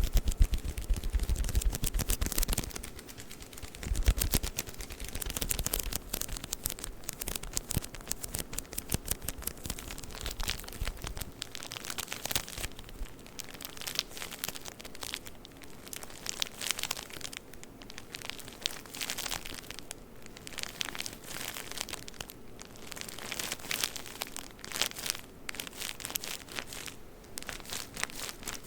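Tissue paper crinkling and rustling close to the microphone as a tissue-paper package is handled. A low rumble of handling runs under it in the first part.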